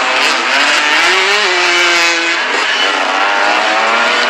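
Several 125cc motocross bike engines running hard on the track at once. About a second in, one engine revs up and holds its pitch before backing off.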